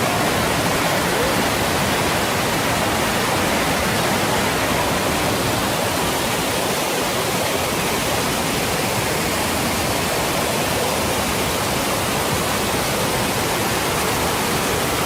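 Steady rush of a tiered waterfall's falling water: an even, unbroken hiss across low and high pitches that does not change.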